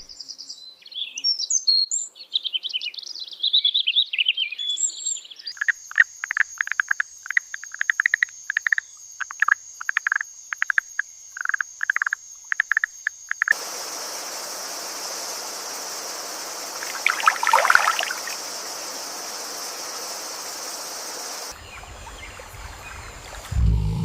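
Rainforest ambience in changing layers: chirping bird notes, then a steady high insect drone with a call pulsing about twice a second, then a dense hiss of insects with one brief call in the middle.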